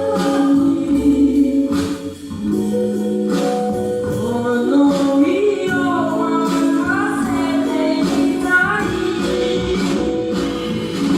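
A girl singing a slow ballad in Japanese, backed by a small trio of guitar, bass and percussion.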